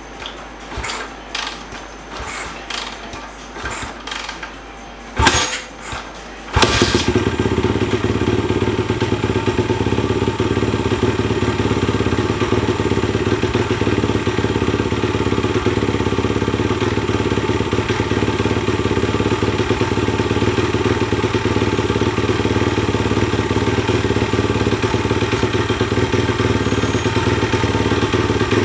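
Pit bike's 225cc single-cylinder four-stroke engine (Daytona 190 bored and stroked) catches about six and a half seconds in and runs at a steady speed. Before it starts there is a series of short clicks and knocks, one loud knock just before it fires.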